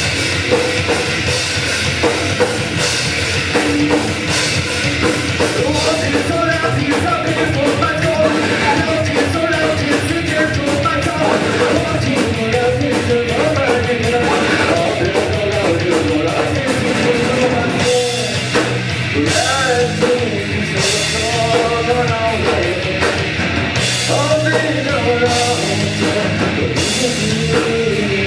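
Live rock band playing loud, heavy music: a drum kit pounding steadily under a singing voice.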